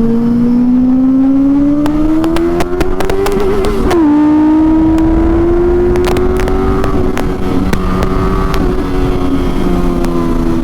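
Benelli 600i inline-four motorcycle engine through an IXIL aftermarket exhaust, accelerating: its pitch climbs for about four seconds, drops suddenly at a gear change, then rises slowly again and levels off. Sharp cracks come several times in the middle.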